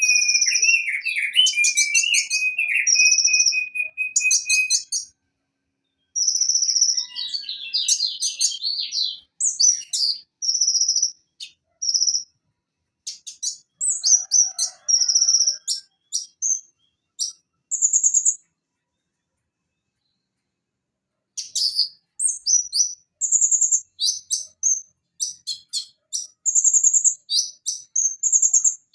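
Van Hasselt's sunbird (konin) singing: rapid bursts of high-pitched chirps and buzzy trills, broken by a short pause about five seconds in and a longer pause of a few seconds past the middle. A lower, steadier trill runs under the song for the first five seconds.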